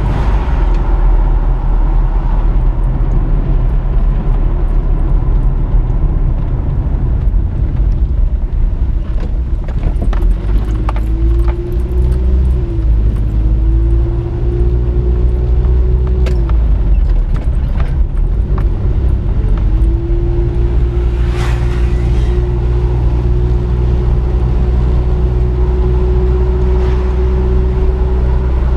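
A vehicle's motor running on the move under a heavy low rumble. A steady whine rises in pitch about ten seconds in, falls away, then returns and holds. There are a few scattered knocks.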